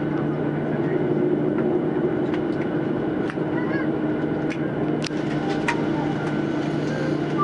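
Steady hum inside an airliner cabin, with a few sharp clicks and knocks about five and six seconds in.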